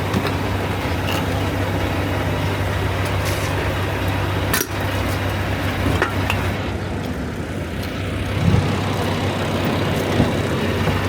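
Semi-truck's diesel engine idling steadily, a constant low hum with a few faint clicks over it.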